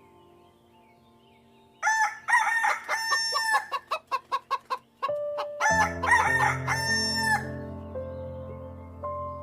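Rooster crowing twice, about two seconds in and again near six seconds, with a run of quick clucks between the crows.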